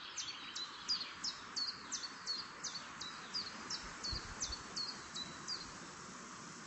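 A songbird singing a long, even series of high, downward-sliding notes, about three a second, which stops a little before the end. A steady hiss of outdoor background noise runs beneath it.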